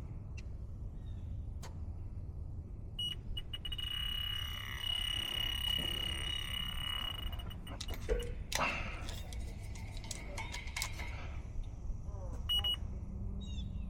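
Electronic refrigerant leak detector ticking, with a high steady alarm tone sounding for several seconds from about three seconds in and briefly again near the end. A quick run of clicks and handling noise comes about eight seconds in.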